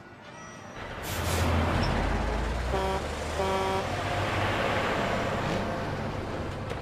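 Truck-stop vehicle sound: a low engine rumble and a rush of passing-traffic noise build up from about a second in. Two short horn toots come close together about three seconds in.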